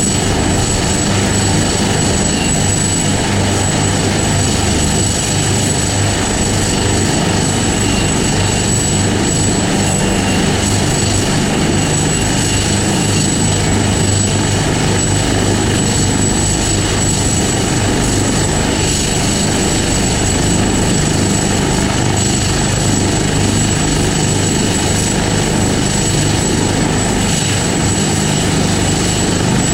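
Helicopter running steadily close by, its rotor and turbine engine giving a loud, unchanging noise with a steady high whine on top.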